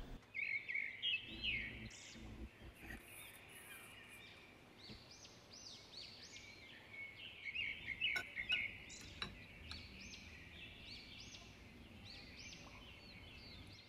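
Faint bird chirping: many short, high chirps repeating over and over, with a couple of light clicks about eight and nine seconds in.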